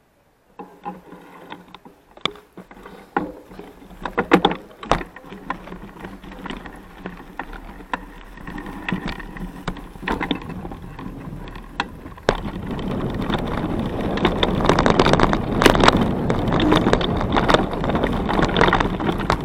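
Mountain bike riding over a rough trail: scattered rattles, clicks and knocks from the bike, then about twelve seconds in a louder, steady rush of tyre and wind noise with clatter on top as it picks up speed.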